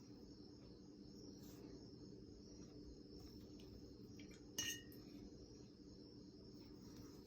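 A single light glass clink about halfway through, a paintbrush tapping against the glass water jar, over near-silent room tone with a faint steady hum and a faint high-pitched tone.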